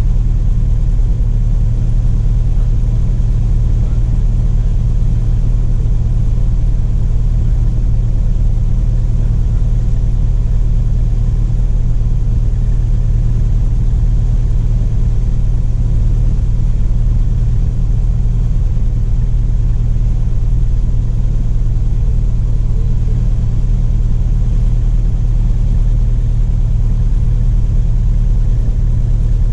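Single-engine light aircraft's piston engine and propeller running steadily, a constant deep drone heard from inside the cabin of a Cessna Cardinal RG.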